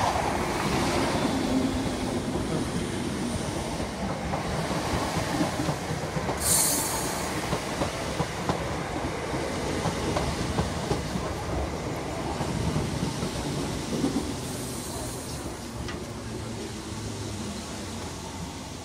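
British Rail Class 317 electric multiple unit running through, its wheels clattering over the rail joints, the sound slowly fading toward the end. A brief sharp hiss about six seconds in.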